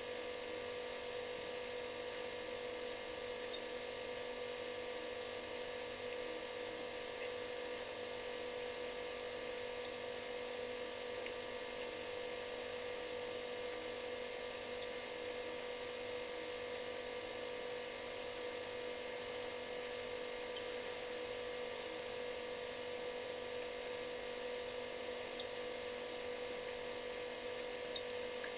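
Refrigerator compressor running, a steady, unbroken buzzing hum with a strong mid-pitched tone.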